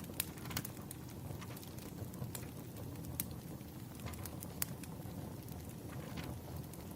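Wood fire burning: a steady low rumble of flames with sharp, irregular crackles and pops of the burning logs, a few each second.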